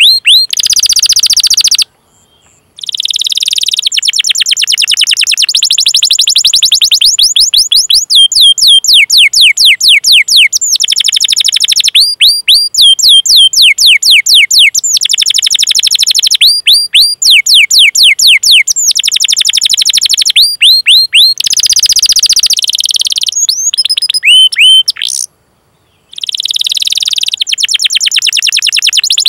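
Domestic canary singing: long rolls of rapid repeated chirp notes and quick sweeping 'cuit cuit' calls, high-pitched, with two brief pauses, one about two seconds in and one near the end.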